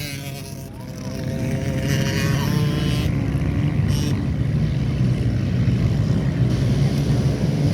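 Small pit bike engines running hard, growing louder about a second in and then holding steady.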